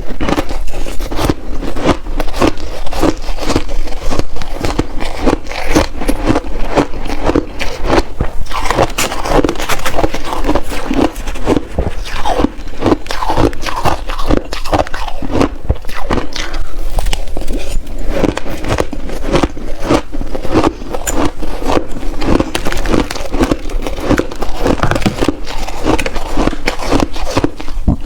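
Close-miked crunching of shaved ice, bitten and chewed in big mouthfuls, a dense run of crackles with no break.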